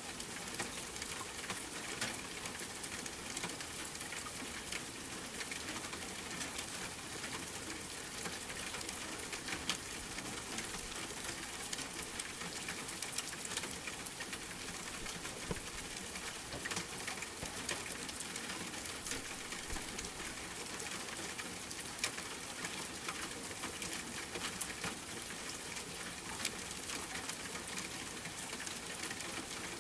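Steady rain falling, mixed with a wood fire crackling: scattered small pops throughout and a few louder ones, about ten seconds in and again past twenty seconds.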